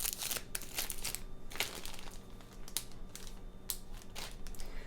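Plastic packaging crinkling and crackling in irregular bursts as it is handled, with scattered small clicks.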